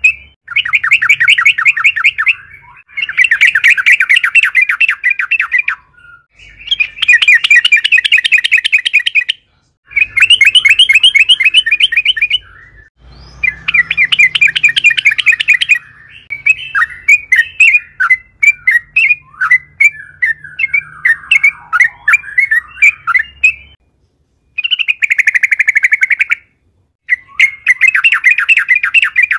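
Yellow-vented bulbul (trucukan) singing loudly in long, rapid rolling runs of chattering notes. Each run lasts two to three seconds with short breaks between, and a looser string of separate chirps comes in the middle.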